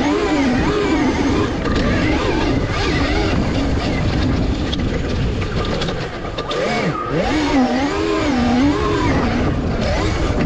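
Revolt electric dirt bike's motor whining, its pitch rising and falling over and over with the throttle, over a steady rush of wind noise.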